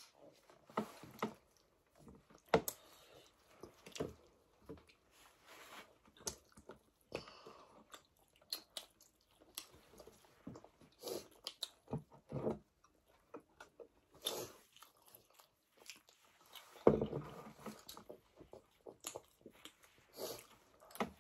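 Several people chewing and biting into chapati with buff curry close to the microphone: a string of short, separate mouth smacks and clicks, with a louder burst near the end.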